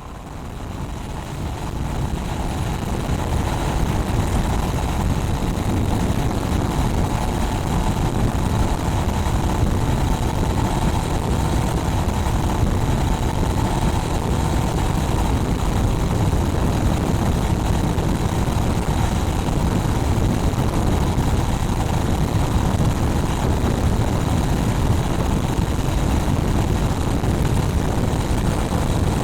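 Honda Rebel 500's parallel-twin engine on its stock exhaust, running at steady road speed, mixed with heavy wind noise on the microphone. The sound grows louder over the first few seconds, then holds steady.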